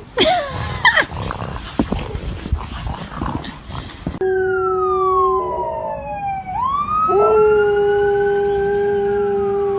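For the first four seconds, a short cry and a scuffling clatter. Then a siren wails, falling and rising in long glides, while a dog howls along in long held notes.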